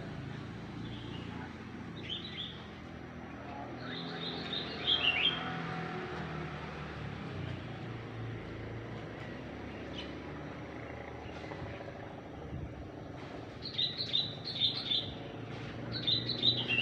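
Small birds chirping, in clusters of quick, high, falling chirps that come in bursts about two, four and fourteen seconds in and again near the end, over a steady low background hum.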